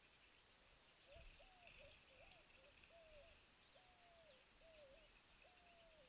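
Faint bird calls: a series of about seven low whistled notes, each rising and then falling away, over faint high twittering of small birds. A soft low thump comes about a second in.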